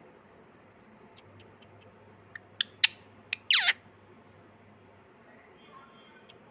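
Parrot giving four short sharp notes, then one loud call, about three and a half seconds in, that falls steeply in pitch.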